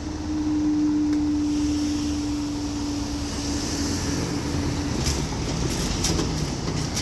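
Northern Ireland Railways diesel multiple-unit train passing at a level crossing: a steady low rumble with a held tone that stops about five seconds in, followed by a few sharp clicks.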